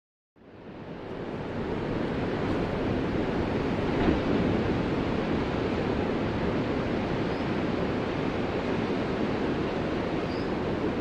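Ocean surf: a steady wash of breaking waves that fades in from silence about half a second in.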